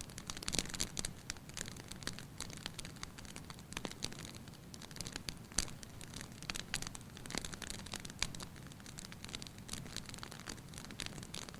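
Fire crackling in a fireplace: irregular sharp pops and snaps over a steady low hiss.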